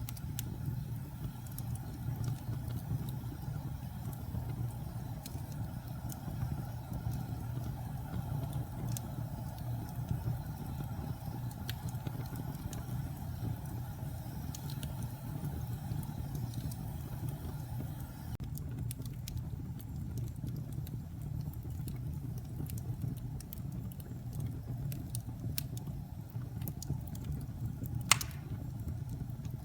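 Wood fire burning in a fireplace: a steady low rumble of the flames with scattered crackles and small pops, and one sharper pop near the end.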